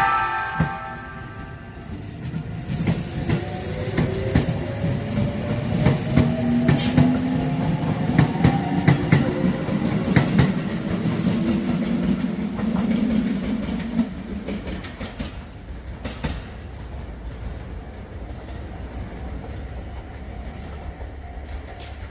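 Tobu 20400 series electric train pulling away from the platform. A brief tone sounds at the very start, then the motor whine climbs in pitch as the train speeds up, over a rumble and the clack of wheels on rail joints. It fades after about fourteen seconds as the train moves off.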